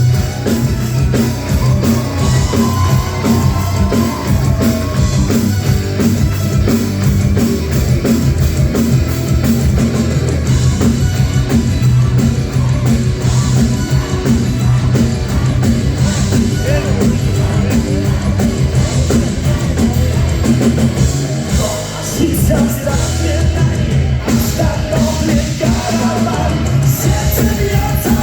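Live metal band playing loudly: heavy bass, guitars and fast, steady drumming.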